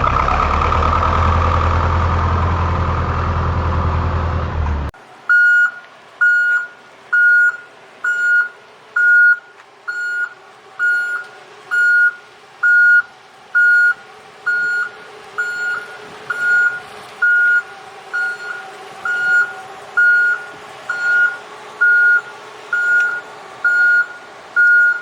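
A loud, steady engine-like rumble for about the first five seconds, which cuts off suddenly. Then a vehicle reversing alarm beeps steadily, about one beep a second.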